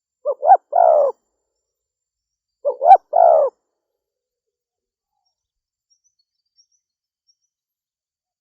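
Female spotted dove cooing: two calls about two and a half seconds apart, each two quick notes followed by a longer one.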